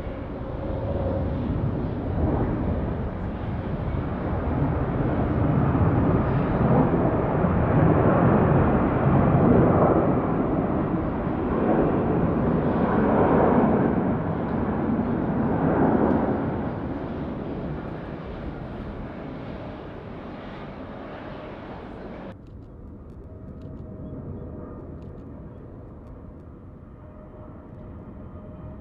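Jet airliner passing close. Its engine noise swells to its loudest in the middle and then fades away. About two-thirds of the way through, the sound cuts off abruptly, leaving a quieter jet engine hum with a faint steady whine.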